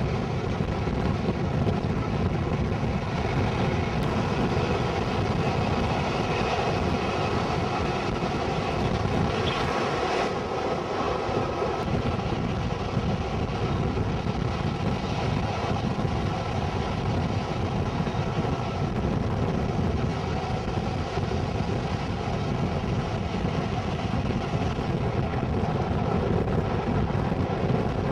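Diesel-hauled passenger train running at speed, heard from an open carriage window: a steady rumble of wheels and rushing air with an even drone running through it.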